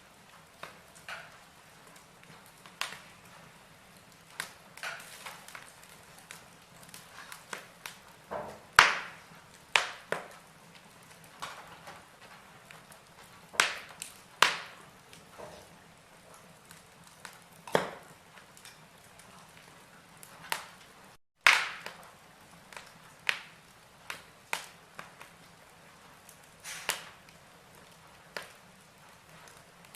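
Logs burning in a fireplace, crackling with irregular sharp pops and a few louder snaps over a faint steady hiss. The sound drops out for a split second about two thirds through.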